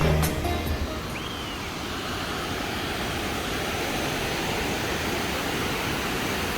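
Steady rush of water pouring through a dam, flowing fast and strong. The tail of background music fades out within the first second.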